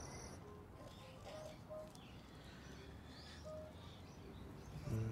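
Faint small birds chirping intermittently, with a low, steady held tone starting near the end.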